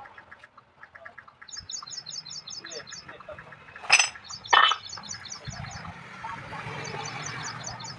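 A bird chirps in quick high trains of about eight notes, repeated three times. Two sharp knocks, the loudest sounds, come about four seconds in and half a second apart, and a low hum starts just after them.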